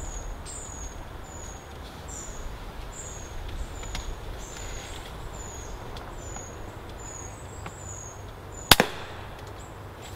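A small bird repeats a short, high, falling call about twice a second over a steady low background. The calls stop near the end, shortly before a single sharp crack, the loudest sound.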